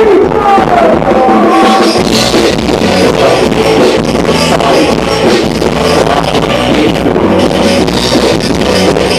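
Loud band music with a drum kit; the drums and bass come in about two seconds in under a gliding melody line.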